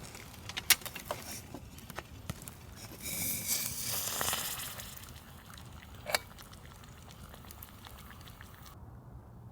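Campfire crackling, with several sharp pops in the first couple of seconds and one more about six seconds in, and a louder rustling hiss a few seconds in.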